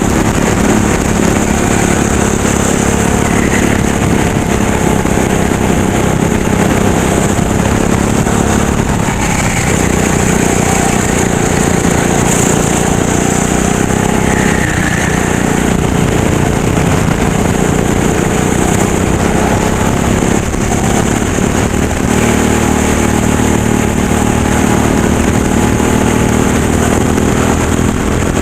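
Racing kart engine running hard at speed, its pitch dipping and rising a little now and then.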